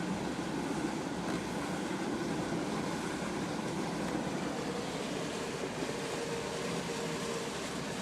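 Vehicle driving through deep floodwater on a road: a steady rush and splash of water against the vehicle, heard from inside.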